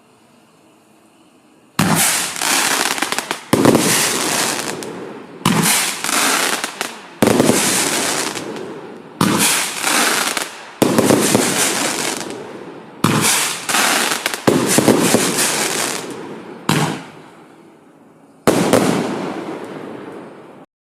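Hallows Curse firework barrage (a battery cake) firing a volley of about eleven loud shots, starting about two seconds in. The shots come every one and a half to two seconds, and each blast trails off over a second or two before the next.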